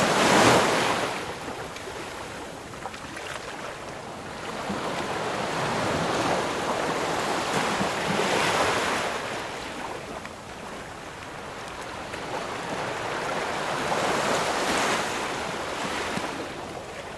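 Ocean surf: waves breaking and washing up the shore in a continuous rush of noise that swells and ebbs, with three crests about six seconds apart.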